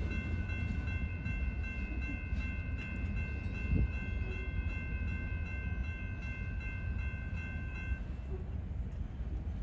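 Freight locomotive's air horn sounding one long, steady chord that cuts off about eight seconds in, over the low rumble of a freight train rolling by.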